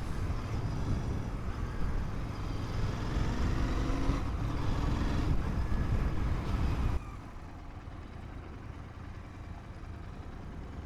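Motorcycle running slowly with a steady low rumble, the sound dropping off abruptly about seven seconds in to a quieter background hum.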